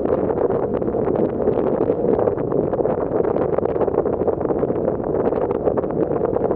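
A passenger ferry underway, its steady engine and water noise mixed with wind buffeting the microphone on deck, unchanging throughout.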